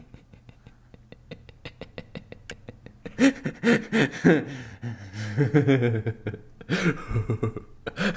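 A person's crazy, maniacal laugh: quick faint clicking breaths for the first few seconds, then loud pitched 'ha-ha' bursts that fall in pitch, breaking out again twice near the end.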